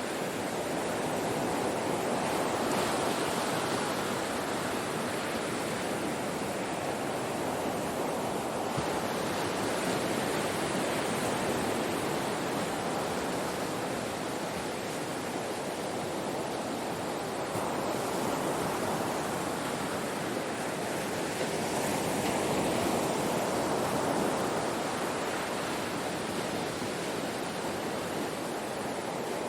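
Ocean waves breaking on a shore: a continuous wash of surf that swells and eases every several seconds.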